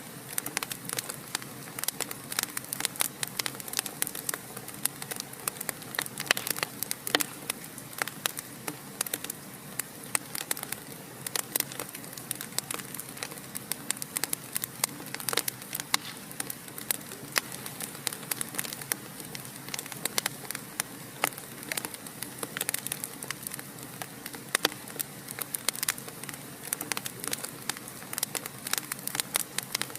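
Fireplace fire crackling steadily, with many irregular sharp pops and snaps over a soft hiss.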